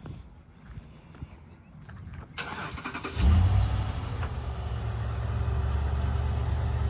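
The 6.4-litre gasoline Hemi V8 of a 2016 Ram 5500 cold-starting: the starter cranks briefly about two and a half seconds in, the engine catches about three seconds in with a short flare of revs, then settles to a steady idle.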